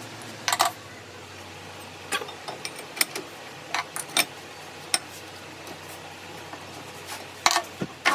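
Metal parts and tools being handled in a workshop: about a dozen irregular clinks and knocks over a steady low hum.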